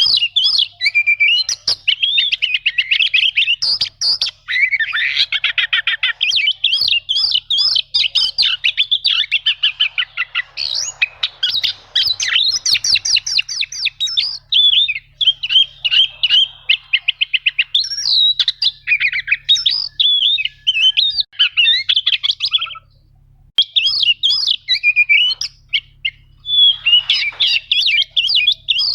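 Oriental magpie-robin (kacer) singing a loud, varied song of whistled phrases and fast chattering trills, almost without pause. There is one short break about two-thirds of the way through.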